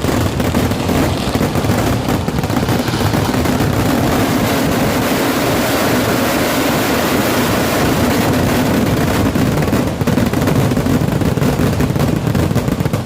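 Firecrackers of a festival fireworks finale going off in a dense, unbroken barrage of overlapping bangs.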